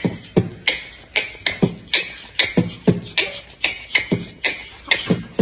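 A steady beatbox-style beat, about three hits a second: deep thumps that drop in pitch alternate with sharp, hissing snare-like hits.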